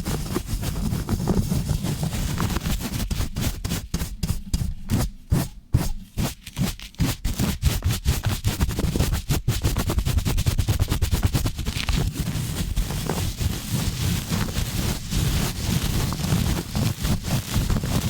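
Fast, rough rubbing and scratching directly on a bare microphone, rapid strokes several a second over a heavy low rumble.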